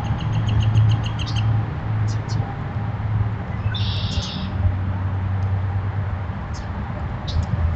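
Wild birds chirping: a rapid run of repeated high notes in the first second and a half, a short burst about four seconds in, and a few single chirps after, over a steady low hum.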